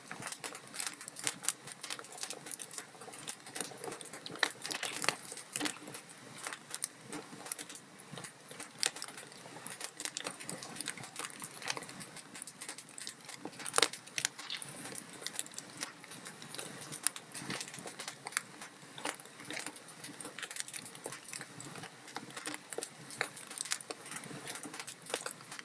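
Wood fire burning in a fireplace, crackling constantly, with dense irregular pops and snaps over a soft hiss. A sharper pop stands out about 14 seconds in.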